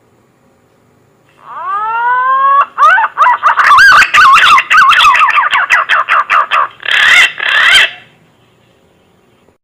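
Green pigeon (punai) calling: a rising whistle, then a fast run of warbling, wavering whistled notes, ending with two louder notes.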